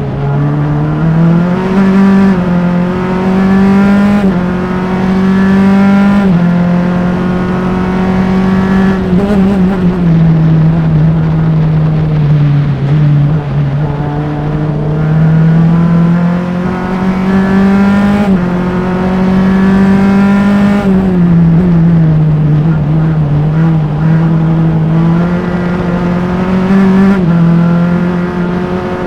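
Single-seater race car engine recorded onboard at full race pace. Its pitch climbs as the car accelerates through the gears and drops back under braking and downshifts, several times over.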